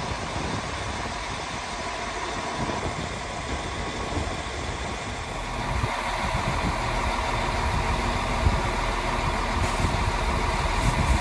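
A train's engine running steadily, getting a little louder about six seconds in.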